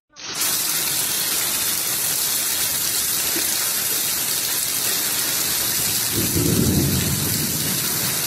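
Heavy rain pouring down onto standing floodwater, a steady hiss. A low rumble swells for about a second near the end.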